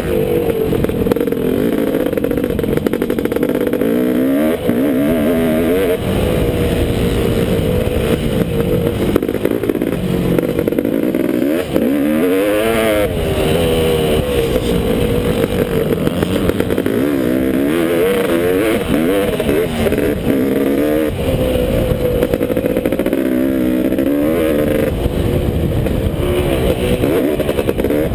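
Honda CR500 two-stroke single-cylinder engine in a KTM frame, ridden hard, its pitch rising and falling over and over as the throttle is opened and shut.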